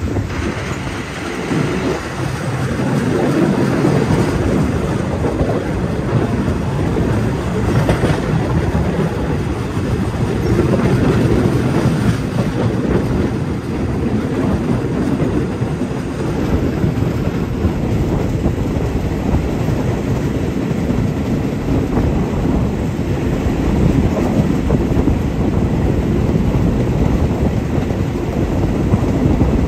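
State Railway of Thailand ordinary passenger train running along the track, heard from on board: a steady, loud rumble of wheels on rails and the moving coach.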